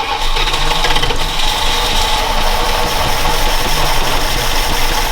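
Truck engine that has just caught after cranking and is running steadily, its first run after the spark and firing order were sorted out.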